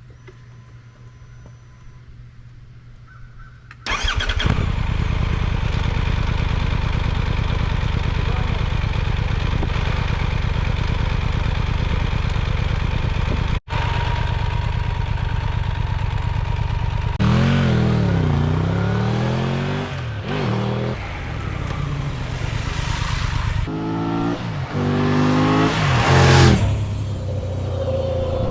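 Triumph Tiger 1200's three-cylinder engine breathing through an Arrow aftermarket exhaust: it starts about four seconds in and idles steadily, then is revved up and back down a couple of times and given a series of sharper throttle blips near the end.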